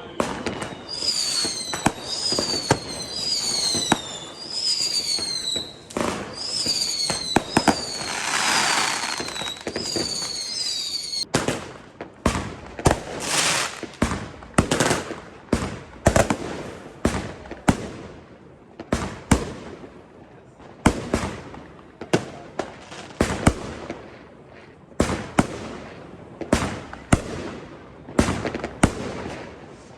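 New Year's fireworks: a quick series of falling whistles, each ending in a pop, for about the first ten seconds, then a long run of sharp bangs and crackling reports, several a second.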